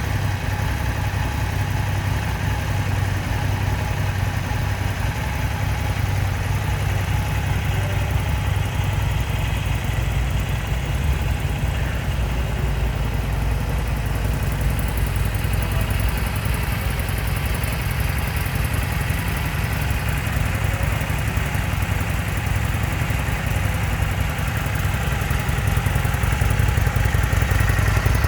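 Harley-Davidson Sportster 1200 Custom's air-cooled 1200 cc V-twin idling steadily, growing a little louder near the end.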